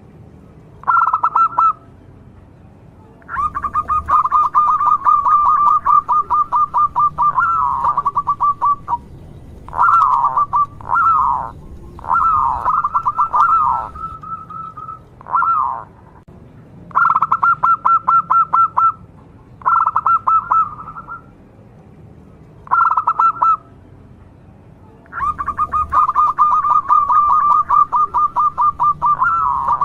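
Zebra dove (perkutut) cooing: phrases of rapid staccato notes, some short and some running about five seconds, with pauses between them.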